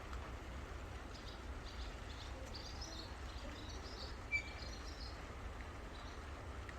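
Light rain making a faint steady hiss, with small birds chirping high and quick through the middle and one short sharp peep about four seconds in.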